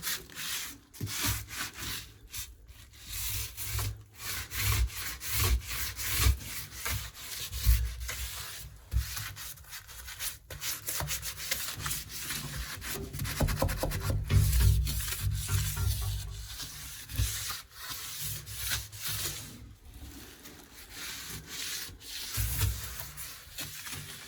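Old silicone sealant being scraped off the edge of a shower tray by hand: irregular rubbing and scraping strokes, with a few dull knocks.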